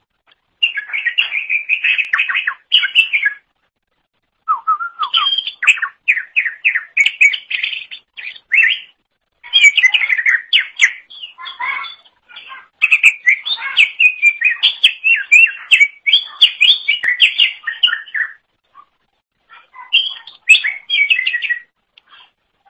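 Greater green leafbird (cucak ijo) singing a long, rapid run of varied chirps and whistles, in phrases broken by a few short pauses.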